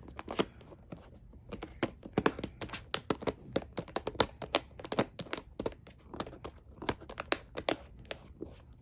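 A cat pawing and clawing at a treat container, trying to open it: a quick, irregular run of clicks, taps and crinkles.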